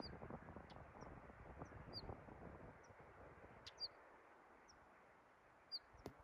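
Near silence with a faint low rustle, over which a small bird gives short high chirps, about six of them roughly a second apart.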